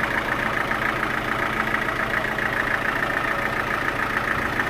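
Sawmill machinery running steadily, an engine-driven drone with a fast, even pulse and no change in speed or load.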